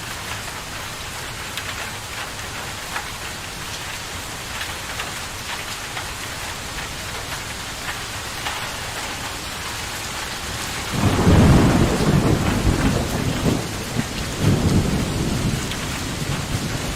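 Steady rain falling, with many close drops ticking through the hiss. About two-thirds of the way through, a low roll of thunder rumbles in, fades, and swells again a few seconds later.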